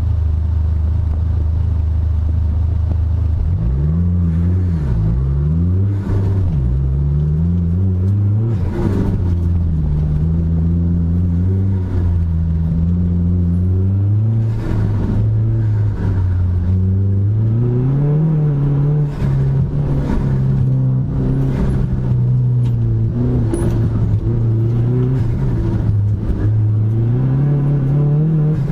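Dodge Neon SRT-4's turbocharged 2.4-litre four-cylinder driven hard: after holding a steady engine speed for a few seconds, the revs climb and fall again and again as it accelerates, lifts and shifts.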